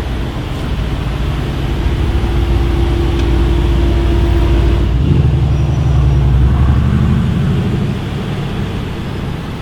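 Car engine running in street traffic; about halfway through its note changes and climbs slightly as a car pulls away, loudest in the middle and easing off near the end.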